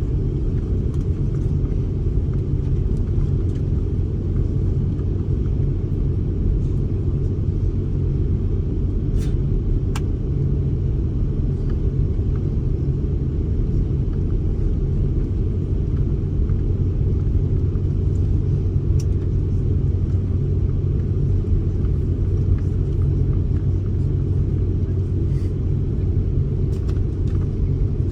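Steady low rumble of a jet airliner heard from inside the cabin, with an even hum underneath, and two faint clicks about nine and ten seconds in.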